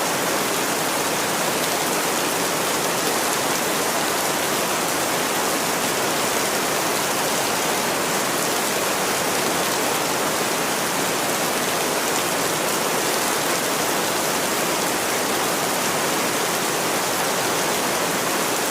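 Steady rain falling, an even hiss without separate drops or thunder.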